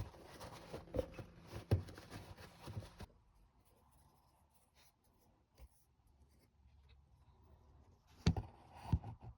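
Brisk scratchy scrubbing and rubbing from hand-cleaning the intake's injector bores, for about three seconds. This cuts off to a quiet stretch, and two knocks come near the end.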